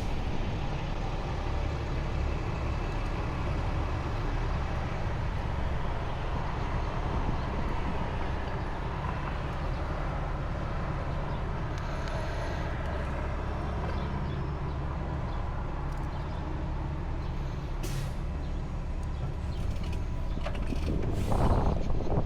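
Steady wind and road rush from riding an electric motorcycle through city traffic, with a heavy low rumble and no engine note. It grows louder near the end.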